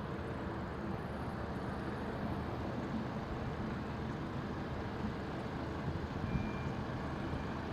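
Steady low rumble of vehicle noise, with no cat sounds standing out.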